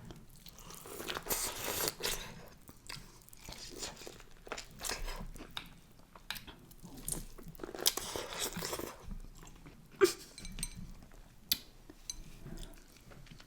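Close-miked eating of a seafood boil: chewing and biting, with two longer noisy stretches of mouth sounds and a few sharp clicks near the end.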